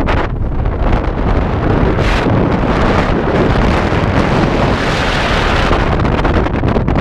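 Strong wind buffeting the camera microphone, a loud, rumbling, uneven rush.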